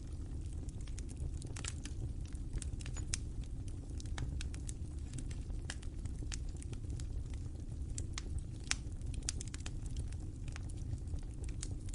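Wood fire burning in a fireplace: a steady low rumble of the flames with irregular sharp crackles and pops, a somewhat louder pop a little before the end.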